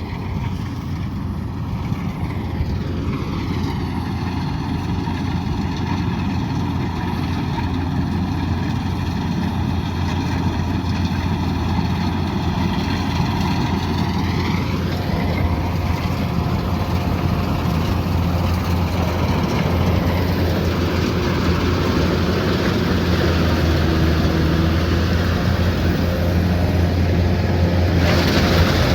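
Kubota DC108X combine harvester's diesel engine running steadily with its steady low hum, with a sweeping shift in tone through the middle and slowly getting louder.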